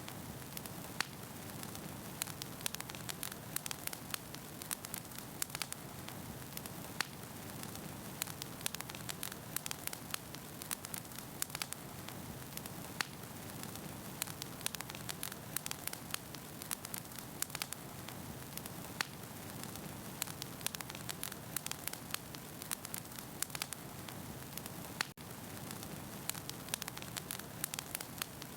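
Wood fire burning in a fireplace: a steady low rush of flames with frequent, irregular sharp crackles and pops from the burning firewood.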